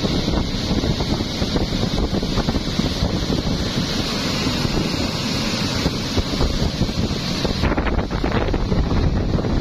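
Wind buffeting the microphone aboard a speedboat under way, over the steady rush of the boat running fast on the water. A high hiss drops away about eight seconds in, and a few short knocks or splashes follow.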